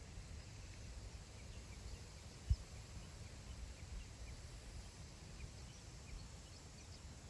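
Wind over open grassland, heard as a low, fluctuating rumble of wind on the microphone, with one sharper low buffet about two and a half seconds in. Faint, scattered short bird chirps sound in the distance.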